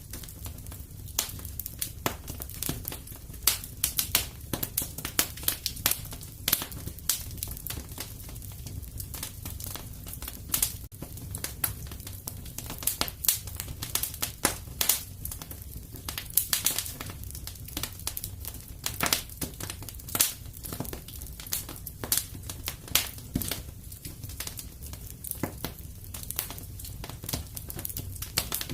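Wood fire crackling in a fireplace: irregular sharp pops and snaps, several a second and some much louder than the rest, over a steady low rumble.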